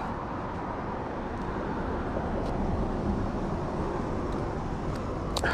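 Steady road traffic noise, an even low rush, with a few faint clicks and a sharper click near the end.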